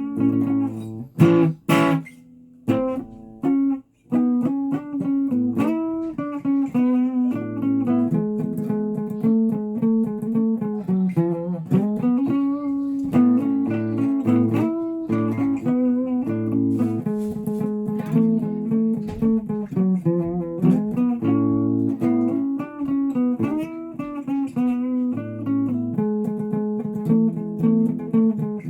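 A guitar being played, with picked notes and chords running on. There are a few sharp strikes about a second in, then a short pause before the playing resumes.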